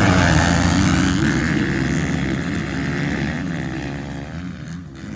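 A pack of motocross dirt bikes accelerating off the start, several engines revving at once and fading steadily as they pull away.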